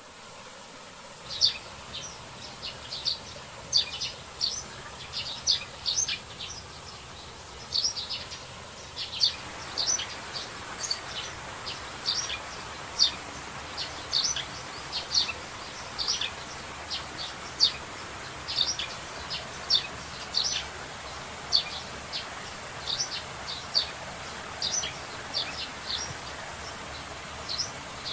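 Birds chirping in forest, short high calls repeating irregularly, over a steady hiss that grows fuller about nine seconds in.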